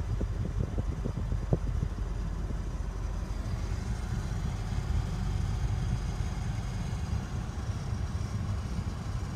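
The air-conditioning system of a 2000 Honda Insight running in the car, a steady low rumble with a faint high whistle above it and a few light clicks in the first second and a half.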